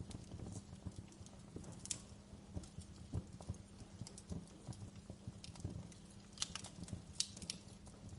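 Wood fire burning in a fireplace, crackling with irregular small pops and a few sharper snaps over a low, steady rumble of flame.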